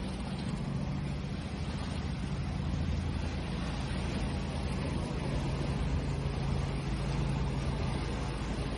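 Ocean waves washing in a steady wash of noise, under a constant low hum that grows slightly stronger in the second half.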